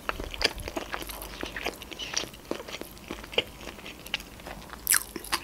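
A person chewing a mouthful of sushi roll close to the microphone: soft crunches and mouth clicks, with a sharper crunch near the end.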